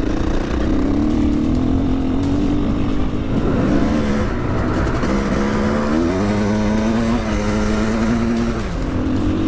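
KTM 500 single-cylinder four-stroke dirt bike engine being ridden hard, running loud with the revs changing through the gears. The pitch rises about six seconds in, holds, then drops back near the end.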